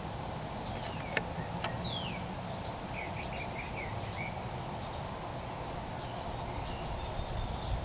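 Faint bird chirps and short descending calls over a steady outdoor background noise, with two sharp clicks about a second in.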